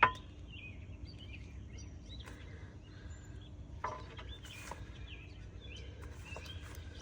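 Birds chirping on and off, many short high calls, with a sharp knock right at the start and a few brief scuffs later.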